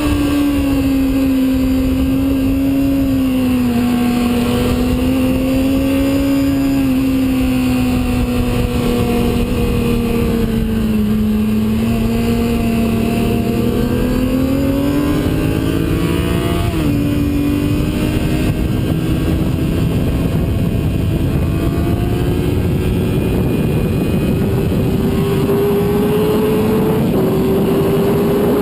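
Sport bike engine at track speed with heavy wind rush. The engine note falls at the start, holds fairly steady for a long stretch, then climbs as the throttle opens. About 17 seconds in it drops suddenly, then climbs again toward the end.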